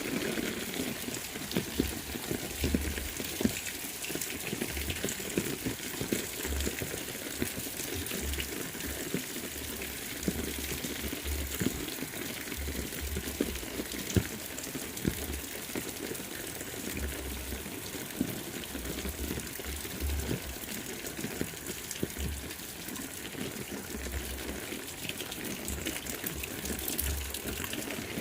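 Heavy rain falling steadily, a dense hiss full of close drops. Short low rumbles come and go throughout.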